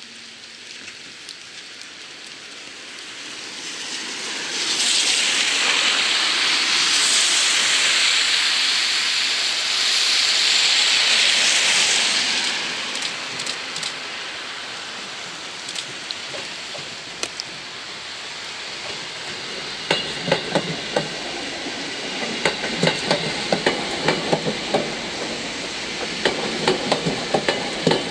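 Seibu 10000-series New Red Arrow limited express train rolling slowly past, its wheels clicking and knocking over rail joints and points in the second half, over a steady hiss of rain. A much louder steady hiss runs for several seconds in the first half.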